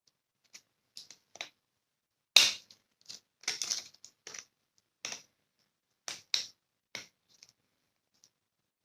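Irregular clicks, taps and scrapes of small steel parts and hand tools being handled, about a dozen in all, with one sharp louder knock about two and a half seconds in.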